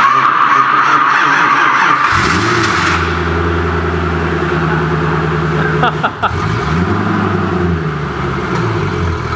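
Koenigsegg CCXR Trevita's supercharged V8 being jump-started from a jump pack: the starter whirs for about two seconds, then the engine catches and settles into a steady idle. About seven seconds in it revs up briefly and falls back.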